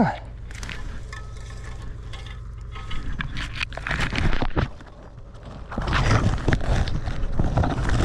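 Someone scrambling through logging slash and brush, with irregular crackling and twigs and branches snapping underfoot. It starts about three seconds in and comes in two bursts. A steady low hum sits underneath at first.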